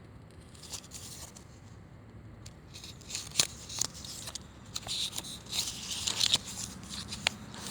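Small card tag being handled and its pages turned: faint paper rustling with small clicks and ticks, busier from about three seconds in.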